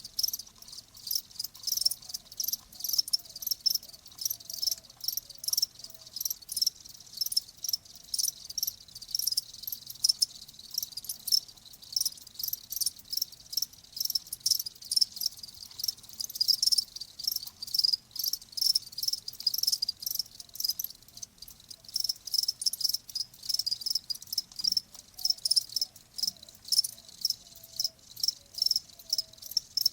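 Crickets chirping in a steady chorus, quick pulses repeating several times a second.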